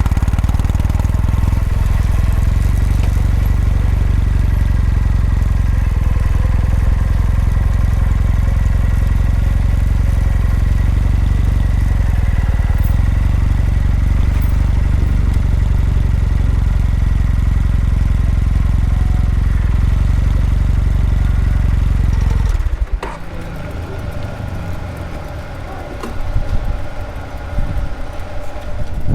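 Kawasaki W800 parallel-twin motorcycle exhaust running steadily, then the engine sound stops suddenly about three-quarters of the way through, leaving a quieter, uneven background.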